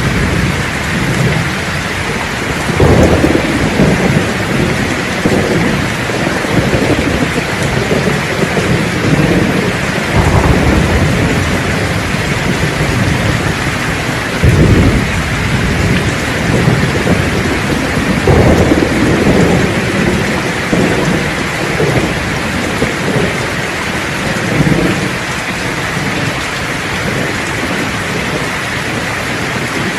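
Heavy steady rain with thunder rumbling again and again, the low rolls swelling several times and dying away near the end.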